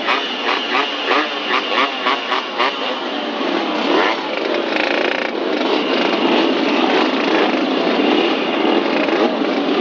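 An old engine running, with squeals that pulse about three to four times a second for the first three seconds, then settle into a steadier drone.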